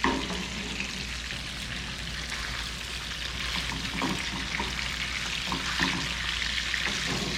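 Porgy fillets frying in a hot pan, a steady sizzling.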